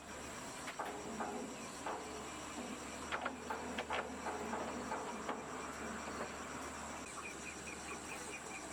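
A steady high-pitched chorus of crickets or other insects, with scattered light knocks in the first few seconds. About seven seconds in, a quick repeated chirping joins in, several notes a second.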